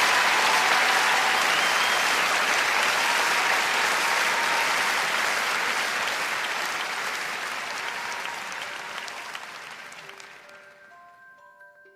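Audience applauding on a live recording, fading away steadily over about ten seconds. Near the end a few soft bell-like notes of a mallet instrument begin.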